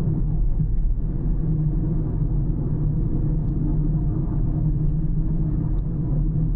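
Steady low rumble of a car on the move: road and engine noise with no sudden events.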